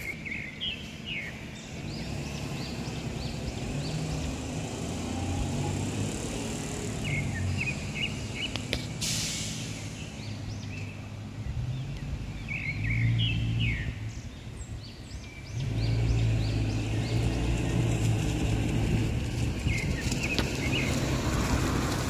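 A bird chirping in short clusters of quick notes, four bursts a few seconds apart. Under it runs a steady low rumble that gets louder about two-thirds of the way through, with a brief hiss about 9 seconds in.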